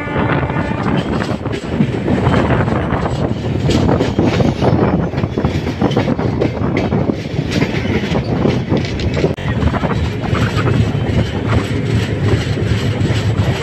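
Indian Railways passenger coach of the Nilachal Express running at speed, heard from its open side: a steady loud rumble of wheels on rail with irregular clickety-clack as the wheels cross rail joints.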